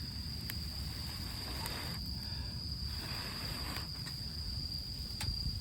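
Steady high-pitched insect trill, with a low rumble and a few faint clicks.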